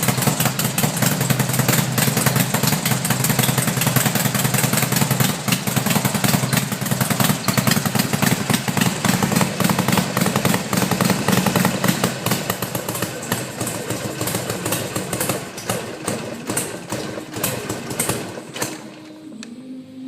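Harley-Davidson Sportster 1200 Roadster's air-cooled V-twin running with a rapid, even pulsing exhaust beat, growing fainter over the last several seconds.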